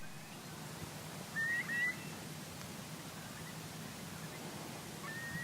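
A bird calling: two short, high, slightly rising calls about a second and a half in, and another near the end, over faint steady background noise.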